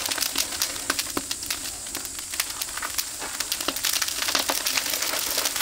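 Meat grilling over an oak-wood fire: a steady sizzling hiss with many sharp crackles from the burning wood and fat.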